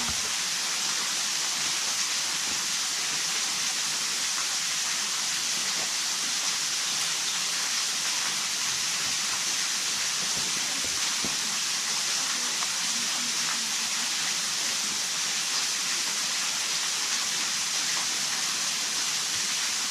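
Steady, even hiss of water, unchanging throughout.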